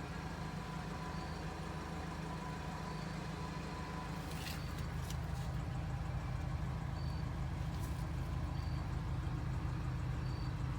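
1980 Toyota pickup's 20R four-cylinder engine idling steadily just after an oil change, getting slightly louder about halfway through. A couple of light clicks are heard.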